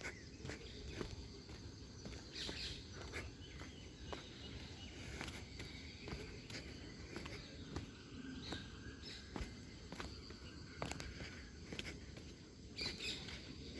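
Footsteps of a person walking along a trail at a steady pace, with faint outdoor background noise.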